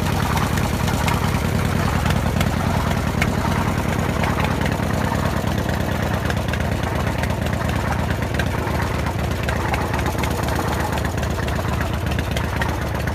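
Harley-Davidson Evolution air-cooled V-twin idling steadily, with a recurring mechanical noise the owner suspects comes from the rockers, though it is strong low by the rear cylinder.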